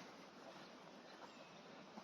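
Faint, steady rush of a fast-running river, with faint birdsong above it.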